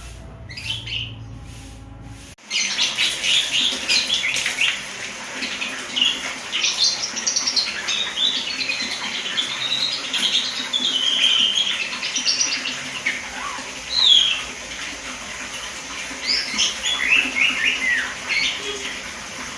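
Asian pied starling singing a long, varied run of chirps, whistles, squawks and gliding notes, a young bird practising its song. The singing starts abruptly about two seconds in.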